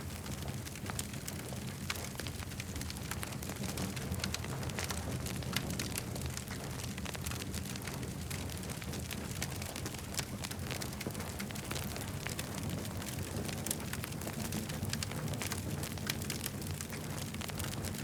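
Campfire crackling: frequent small sharp pops and snaps over a steady low rumble.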